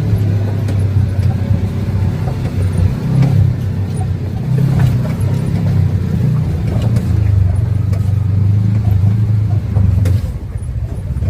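Off-road vehicle engine running under load as it is driven along a rough trail, heard from on board, its low drone rising and falling in pitch as the throttle changes and easing off briefly near the end.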